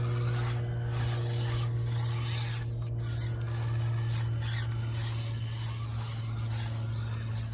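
Micro-scale RC rock crawlers grinding and rasping over rocks: tires scrabbling and small gearboxes straining in irregular bursts, over a steady low hum.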